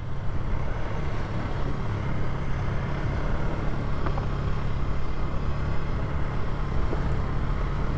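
Polaris ATV engine running at a steady pace while riding along a dirt trail.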